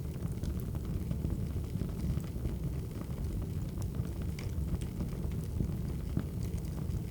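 Wood fire crackling: a steady low rumble of burning logs with scattered sharp pops and snaps.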